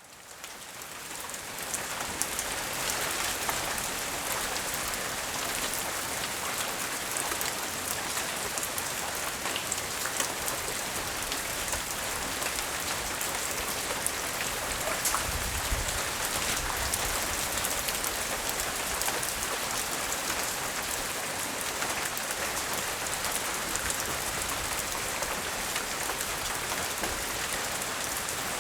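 Steady rain falling and pattering on surfaces, with many small drop ticks, fading in over the first couple of seconds. A brief low rumble comes in about halfway through.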